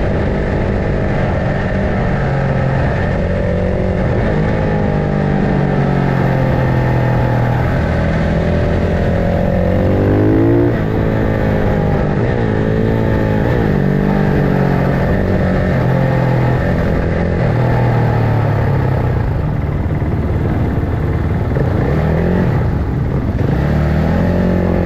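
Several racing motorcycle engines running at once, their overlapping pitches climbing and dropping as the riders accelerate and shift gears, with one clear rising rev cut off by a shift about ten seconds in.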